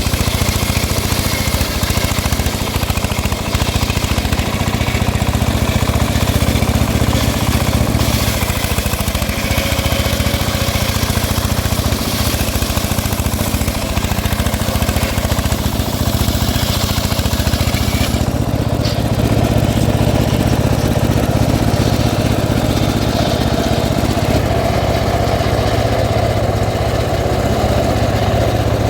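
A small engine running steadily at constant speed. About two-thirds of the way through, the high hiss drops away and the sound shifts lower.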